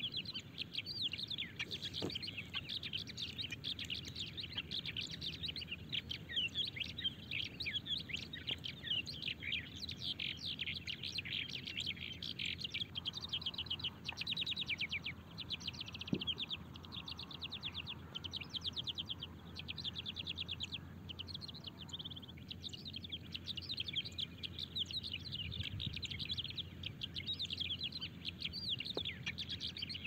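Small birds chirping continuously, many rapid high calls overlapping with hardly a break.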